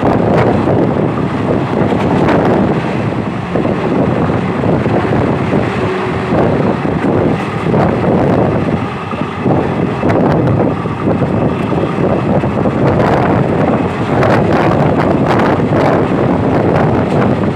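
Passenger train running at speed, heard from on board: a steady rumble of the coaches and wheels on the track with scattered clatter, and wind buffeting the microphone.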